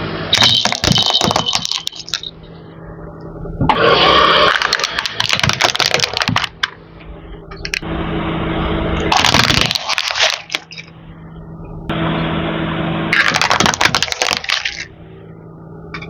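Car tyres crushing hard plastic toys: four bouts of loud crunching and cracking as the plastic breaks apart, over a steady engine hum.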